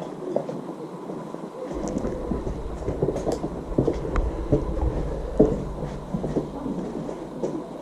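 Irregular footsteps and scuffs on a hard, debris-strewn floor, about one a second, over a low rumble on the microphone that sets in about two seconds in and fades near the end.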